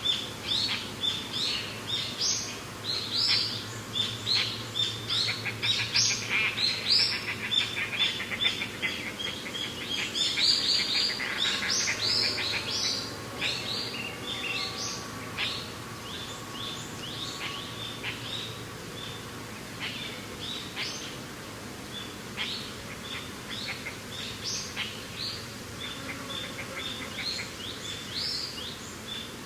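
Many birds chirping and calling in a dense chorus of short rising and falling notes over a steady background hiss of wind. The calls are busiest in the first half and thin out after about fifteen seconds.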